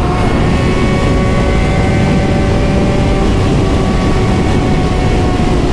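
Suzuki GSX-R600 inline-four engine running at nearly steady revs while the bike cruises, its pitch easing down very slightly, over a loud, steady low rushing noise.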